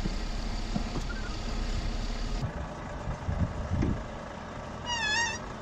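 Vehicle engine running nearby in a yard, with a couple of low surges of revs, and a short wavering tone near the end.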